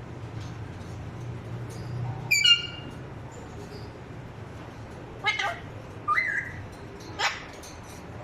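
Pet parrot calling: four short, shrill calls with sliding pitch, the loudest about two seconds in, one rising call past the middle, over a faint low hum at the start.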